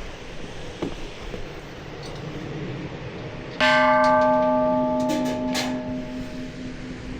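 A bell struck once about three and a half seconds in, ringing with several clear tones and slowly fading, over a steady rushing background hiss.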